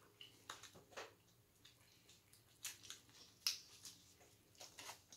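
Faint chewing on a beef stick: scattered short wet mouth clicks and smacks, about a dozen of them.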